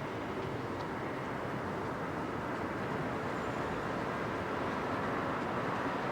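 Jet engine noise of an RAF Airbus Voyager KC2, an A330 MRTT with Rolls-Royce Trent 700 turbofans, on departure: a steady rushing roar that grows slightly louder.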